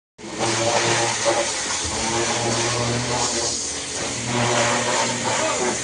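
A motor hums steadily under a loud, even hiss; the hum fades out briefly twice and comes back.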